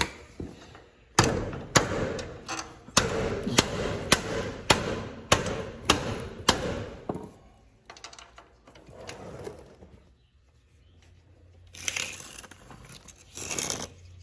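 About ten evenly spaced hammer blows on metal, roughly two a second, each ringing briefly. Near the end come two short hissing bursts.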